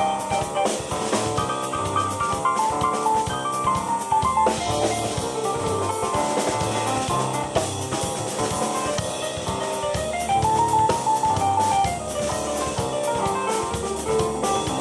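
Live keyboard and drum-kit duo playing a rock jam: a keyboard line of quick stepped notes over a steady drum beat with cymbals.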